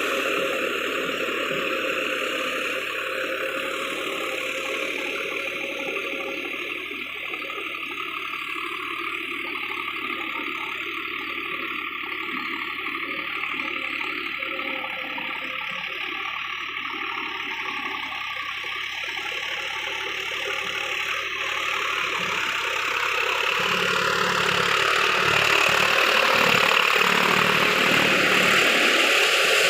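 Swaraj 744 FE tractor's diesel engine running steadily, getting louder in the last several seconds.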